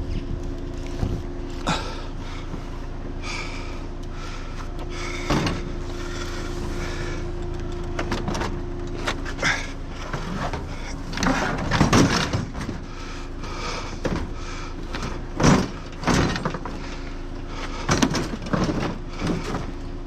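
Knocks, clanks and scraping of scrap items being handled and set onto a trailer, loudest in a cluster a little past the middle. Under them runs the steady hum of an idling vehicle.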